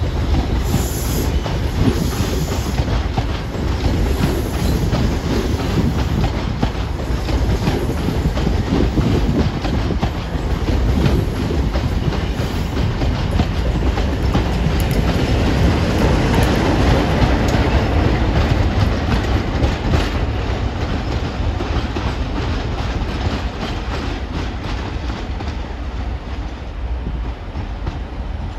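Passenger train coaches rolling past close by, their wheels clicking over rail joints in a steady clatter. The sound eases away near the end as the last coach passes.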